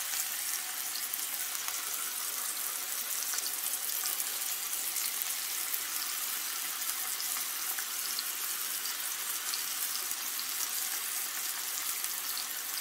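Ground beef, grated carrot and diced onion sizzling steadily in hot oil in a frying pan, with faint crackles throughout.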